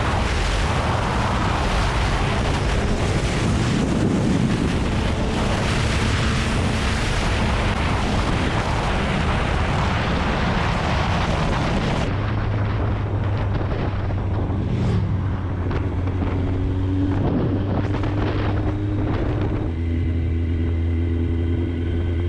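Loud wind noise on a helmet-mounted action camera from a Kawasaki ZX-9R sportbike at speed. About twelve seconds in the wind drops away sharply and the bike's inline-four engine comes through as a steady note, with a few short clicks or knocks in the second half.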